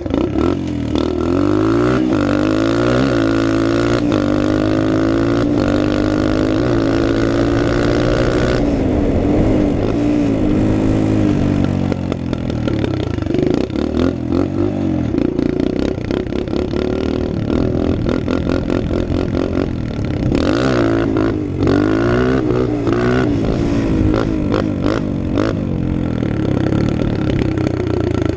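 Small dirt bike's engine being ridden hard, the revs climbing and dropping again and again as the throttle is opened and closed, with the bike's rattle underneath.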